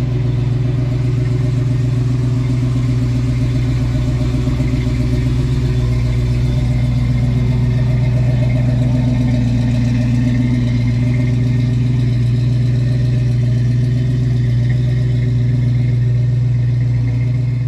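Motor vehicle engine running steadily at an unchanging speed.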